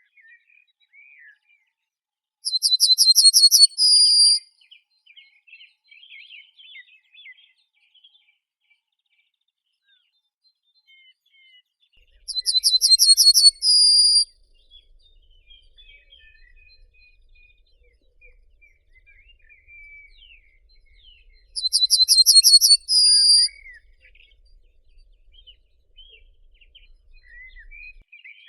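A bird sings the same loud phrase three times, about ten seconds apart. Each phrase is a fast trill of rapid notes ending in a short held note. Faint, scattered chirps from other birds fill the gaps.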